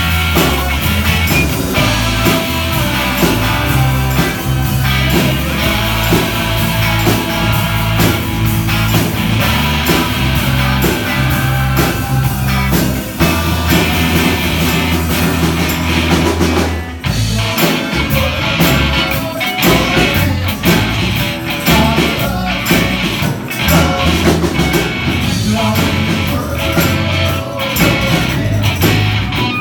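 Live band playing an upbeat song with singing, a steady bass line and drums, with a brief break about halfway through.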